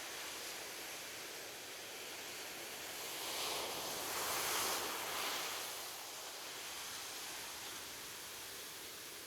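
Ocean waves washing onto a beach: a steady hiss of surf, with one wave swelling louder about three seconds in and fading again after about six seconds.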